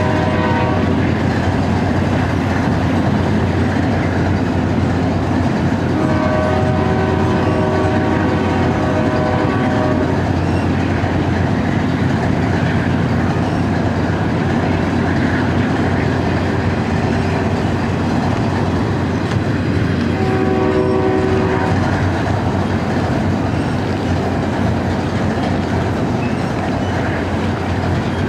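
Double-stack intermodal freight train rolling past: a steady rumble and clatter of the well cars' wheels on the rails. The distant lead locomotives' horn sounds a chord in several blasts, a long one about six seconds in, a shorter one around twenty seconds in, and another starting near the end.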